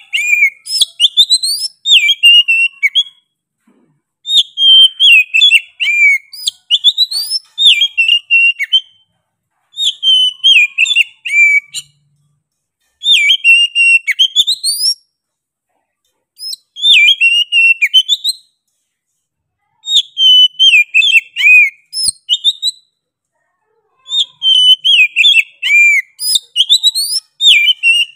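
Oriental magpie-robin in full song: loud phrases of rapid, varied whistled notes, each two to four seconds long, with about a second of silence between phrases.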